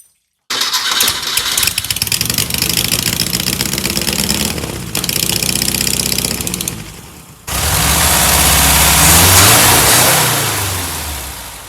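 Type 4 VW air-cooled flat-four engine starting suddenly and running with a fast, even pulse, then in a second stretch revving up and back down before fading out.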